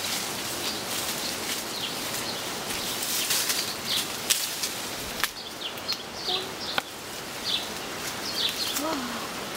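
Small birds chirping in short high calls over a steady outdoor hiss, with a few sharp clicks and rustles.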